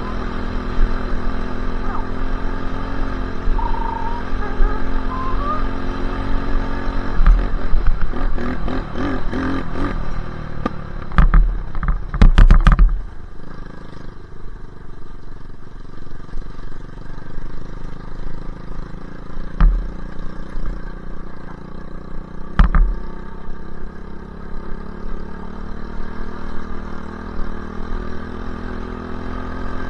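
Dirt bike engine running as it is ridden. Partway through come several seconds of rattling and loud knocks, then the engine runs lower with two more single knocks, and it picks up again near the end.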